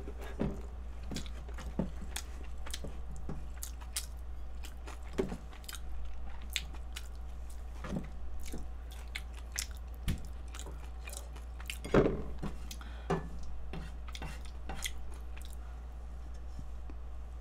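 Close-miked chewing of kimchi fried rice, with scattered clicks and taps of a spatula against a frying pan and bowl. One louder knock comes about two-thirds of the way through.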